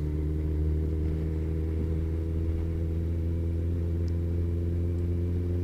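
Kawasaki ZZR1400 motorcycle's inline-four engine drone at steady cruising revs, holding one pitch without rising or falling.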